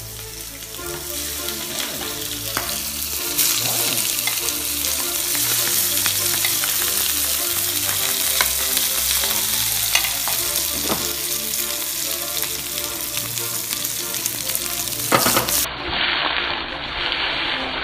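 Whole shell-on tiger prawns sizzling hard as they are laid into a pan of hot oil and seared, the sizzle growing louder about three seconds in. A few sharp clicks of metal tongs against the pan break through it.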